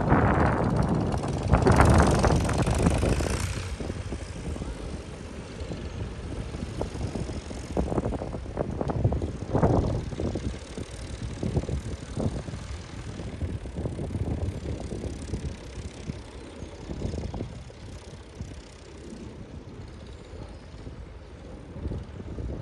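Tractor engines running past, loudest in the first few seconds and then fainter and uneven.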